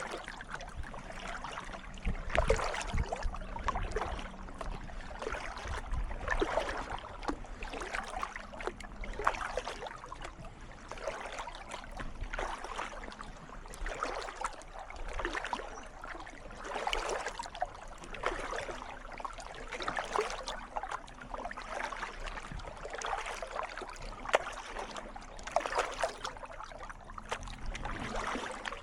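Kayak paddle strokes splashing and dripping in calm water, a stroke about every one and a half seconds, with the hull moving through the water.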